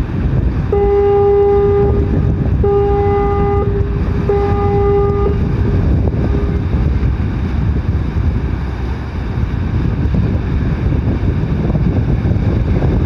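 Ship's horn of the sightseeing boat Concerto sounding three short blasts of about a second each, a deep steady tone, with a brief echo after the last, over wind rumble on the microphone. Three short blasts is the standard signal that a ship's engines are going astern as it backs away from the pier.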